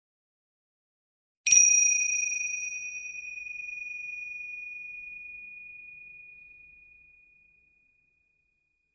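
A single high metallic ding from a small struck bell, about a second and a half in. It rings out clear and slowly fades over about six seconds.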